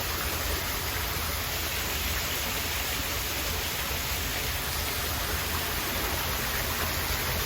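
Steady rush of falling water from an indoor waterfall splashing into a pond.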